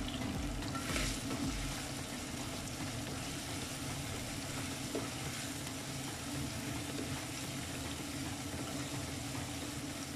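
Beef and turnip curry sizzling steadily in a wok as it is stirred and fried in its masala with a spatula.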